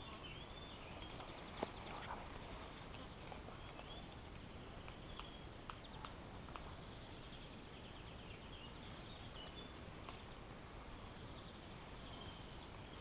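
Faint birdsong: small birds chirping and trilling on and off. A few sharp clicks sound over it, the loudest about a second and a half in.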